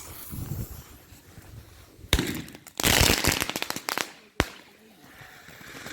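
Consumer fireworks going off: a sharp bang about two seconds in, then a second-long run of rapid crackling pops, then another single sharp bang.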